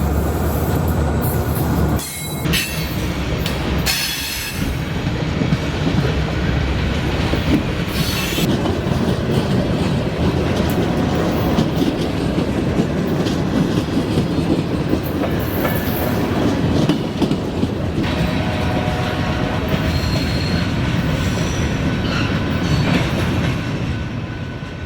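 Freight train rolling past, its steel wheels clacking over the rail joints with brief high wheel squeals. The sound fades out near the end.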